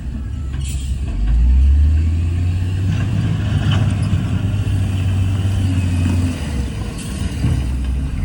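Heavy diesel engine of earthmoving machinery running with a low, steady drone that strengthens about a second in and eases briefly near the end. A few faint clicks sound over it.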